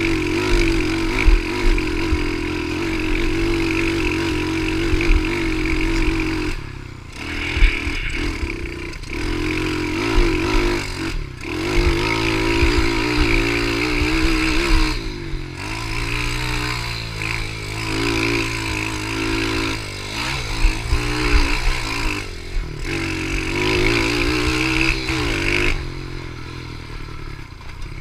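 Pitbike engine revving under way, its pitch rising and falling with the throttle. The engine note drops off briefly several times as the throttle closes.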